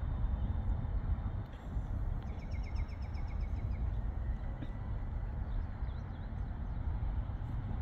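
A bird sings a short trill of quick repeated notes about two seconds in, with a few faint chirps later. Under it runs a steady low rumble.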